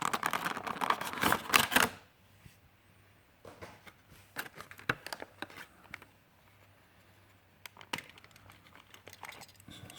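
Plastic and cardboard packaging crinkling and tearing as a small diecast car is taken out of its blister pack. The crackling is dense and loud for about two seconds, then gives way to scattered quieter clicks and rustles.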